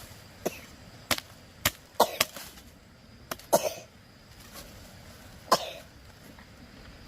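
A tool striking wood in about eight sharp, irregular blows, some in quick pairs.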